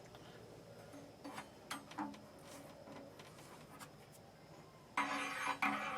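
A few light clicks and taps, then a louder rustling, scraping handling noise starting near the end, as the removed water heater heating element and parts are handled.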